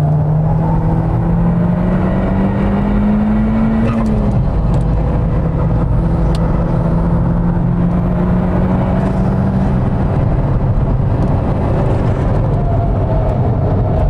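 SEAT Leon Cupra's turbocharged four-cylinder engine under hard acceleration on track. Its note rises for the first few seconds, drops with a gear change about four seconds in, then climbs slowly again before falling away near ten seconds as the car comes off the throttle.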